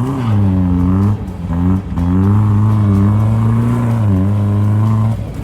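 Straight-piped 2.5 L four-cylinder engine of a Dodge Dakota revving hard under acceleration. Its pitch climbs, dips briefly twice, and is held high for about three seconds before the revs drop off near the end.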